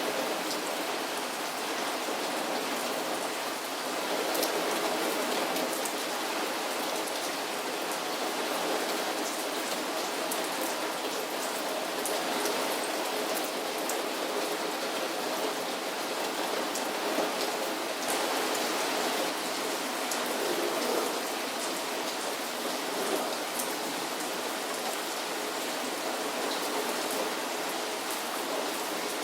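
Heavy thunderstorm rain falling steadily, with the patter of many individual drops striking a surface close by.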